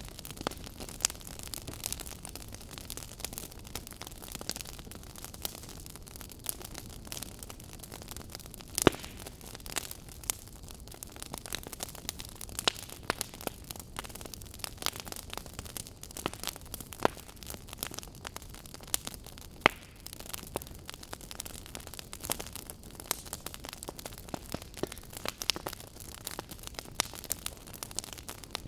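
Wood fire burning, its logs crackling and popping at irregular moments over a steady low hiss, with a few louder pops.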